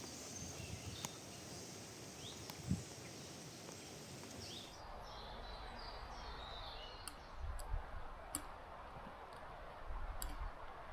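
Faint forest ambience: a low, even hiss with a few short bird chirps and scattered small clicks.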